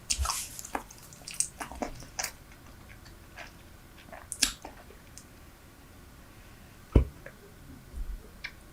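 Close-miked chewing of Super Bubble bubble gum: scattered wet smacks and clicks of the gum in the mouth, with one louder sharp smack about seven seconds in.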